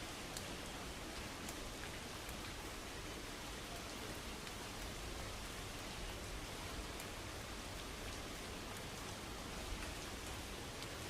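Steady heavy rain falling on a car, with scattered sharper drop strikes among the even hiss.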